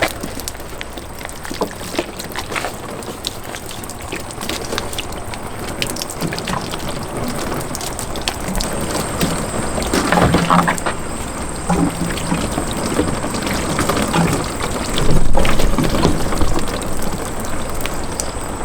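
Water pouring and splashing, with many small clicks and knocks scattered through it.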